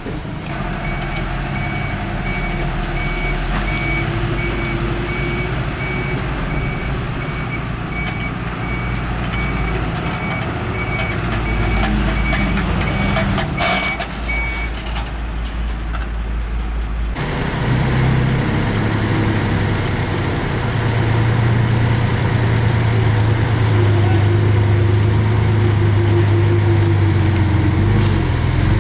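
Diesel engines of earthmoving machinery running, with a reversing alarm beeping steadily through the first half. A little past halfway the sound changes abruptly to a louder, heavier engine note.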